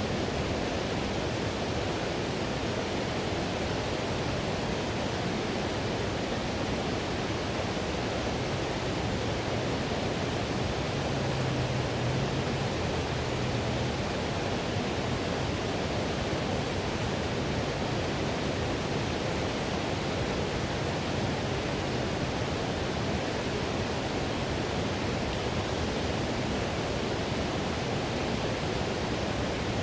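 Whitewater river rushing steadily over rocks, an even, unbroken roar of water.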